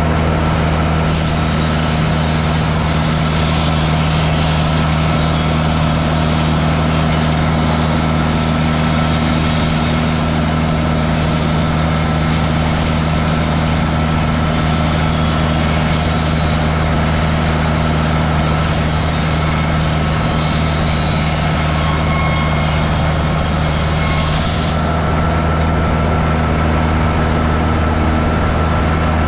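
Bandsaw sawmill running loud and steady, its engine droning under the hiss of the band blade sawing through a white cedar log; the sawing hiss eases about 25 seconds in while the engine keeps running.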